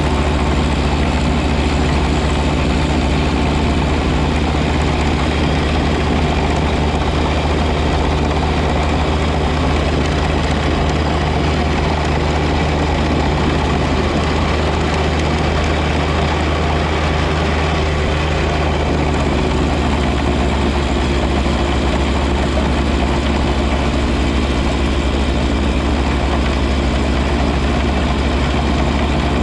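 John Deere 1025R compact tractor's three-cylinder diesel engine running steadily at a constant pitch.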